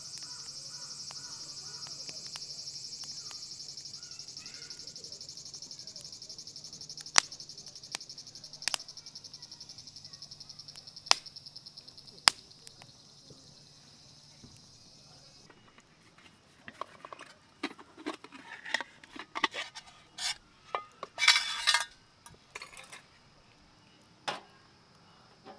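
A steady, high, rapidly pulsing chirr, like insects, with a few sharp clicks over it; it cuts off about halfway through. After that come irregular clinks and rattles of cookware and utensils being handled.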